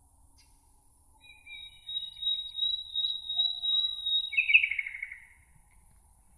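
A small songbird singing: a thin, high, held whistle of about three seconds, ending near the end in a quick falling trill. A faint, steady, very high hiss runs underneath.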